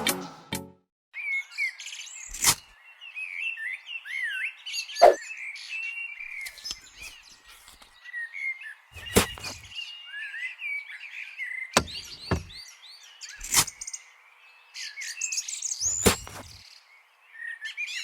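Small birds chirping continuously in quick, gliding calls. Sharp clicks and knocks, some with a dull thud, come every two to three seconds.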